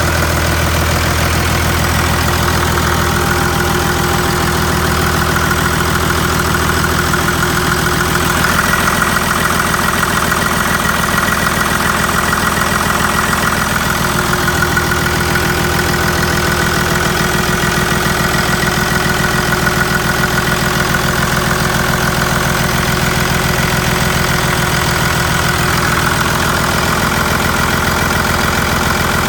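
Cummins 5.9-litre inline-six turbo diesel engine idling steadily.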